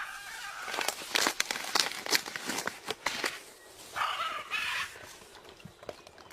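Irregular sharp clicks and scraping from a parrot's beak and claws working on a coconut shell, thickest during the first three seconds.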